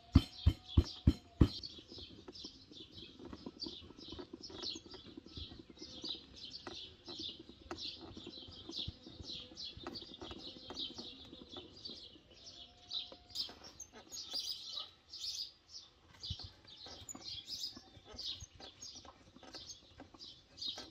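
Small birds chirping over and over in short, rapid notes. A run of loud, sharp knocks, about three a second, stops about a second and a half in.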